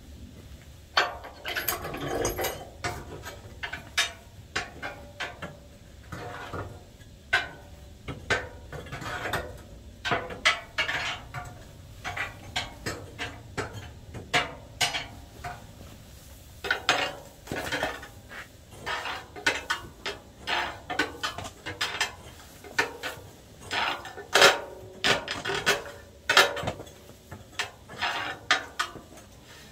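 Metal parts being handled by hand: irregular clinks, clanks and knocks, several a second, with short pauses between runs.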